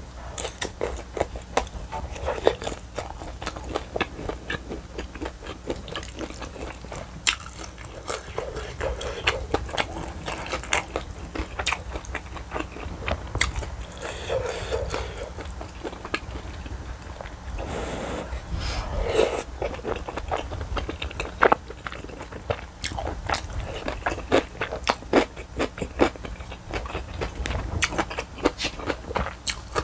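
Close-miked eating of spicy tteokbokki: chewy rice cakes and glass noodles chewed with many wet mouth clicks and smacks, with a couple of slurps partway through.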